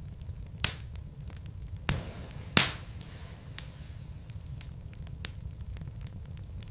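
Wood fire in a fireplace crackling: logs burning with a low steady rumble and scattered sharp pops and ticks, three bigger pops in the first few seconds, the loudest about two and a half seconds in.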